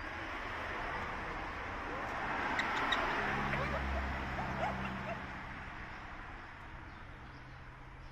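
Amazon parrot vocalising: a rough, raspy call with a few short chirps, loudest about three seconds in and fading toward the end.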